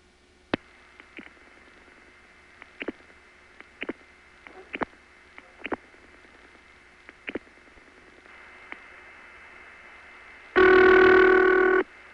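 Telephone line audio from a long-distance call being set up through the switching network: scattered sharp clicks over faint line hiss, the hiss growing louder about eight seconds in, then a loud buzzy tone lasting about a second near the end.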